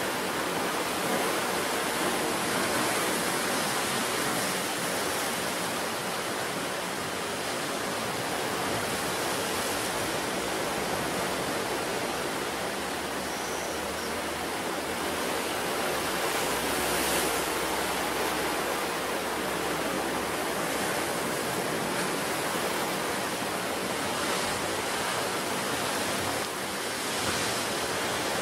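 Ocean surf on a wild coast: a continuous rush of breaking and washing waves, swelling a little now and then.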